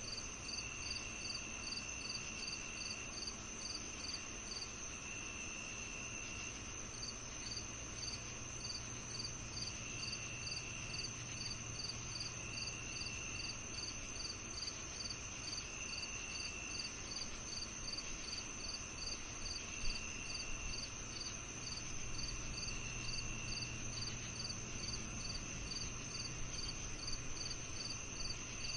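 Crickets singing in a summer-evening chorus: one steady high trill, one chirping about three times a second with a short pause a few seconds in, and a lower trill in stretches of a second or two every few seconds.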